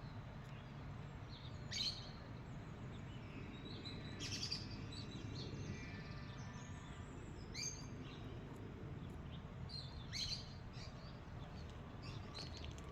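Birds chirping: short bright calls about two, four, seven and a half and ten seconds in, with a fainter run of notes in between, over a low steady background rumble.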